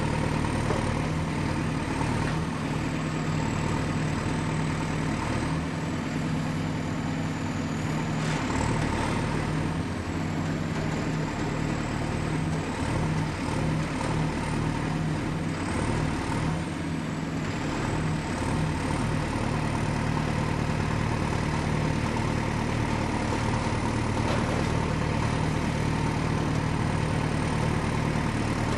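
Excavator's diesel engine running steadily at work, a continuous low drone with a thin high-pitched whine above it that dips and recovers a few times.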